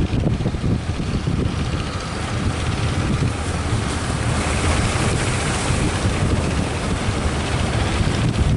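Strong wind buffeting the microphone on a fishing boat at sea, a steady low rumble over the noise of the boat and the waves.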